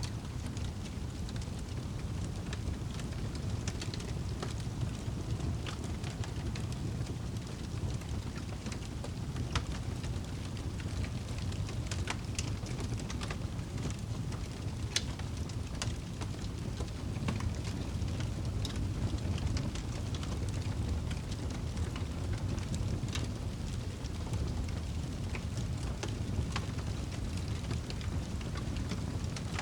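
Campfire crackling, with irregular sharp pops and snaps scattered over a steady low rumble.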